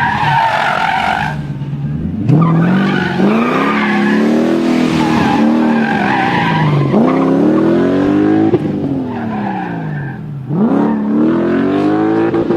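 Car engine revving hard through a drift while its tyres squeal. The revs climb sharply about two seconds in, again around seven seconds and near the end, falling away in between.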